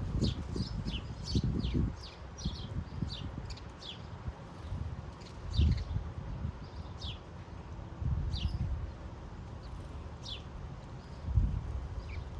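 Finches chirping: many short, downward-sliding chirps, thick at first and then scattered. Low thumps come in now and then, the loudest near six seconds and near eleven and a half seconds.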